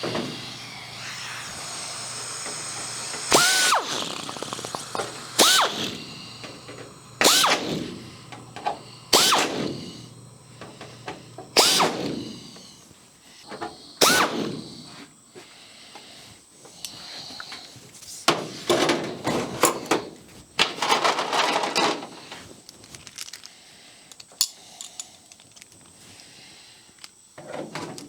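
A hand drill run in short bursts, each spinning up and winding down, six times about two seconds apart, then a denser run of quick bursts past the middle.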